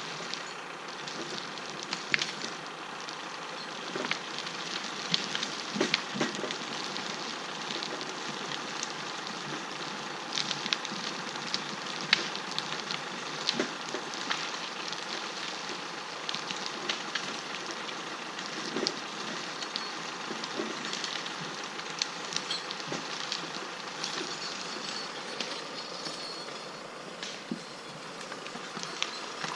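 Steady hiss with many irregular small cracks and clicks scattered through it, like brush or twigs crackling.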